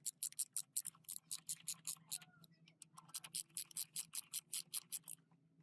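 A fast, regular run of sharp clicks, about five or six a second, that stops shortly before the end.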